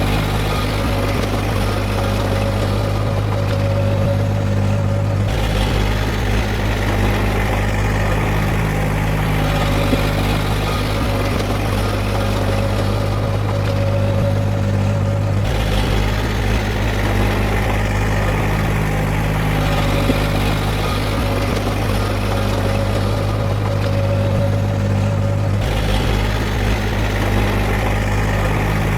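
Diesel engine of heavy earthmoving machinery running steadily, its note shifting about every ten seconds as the load changes.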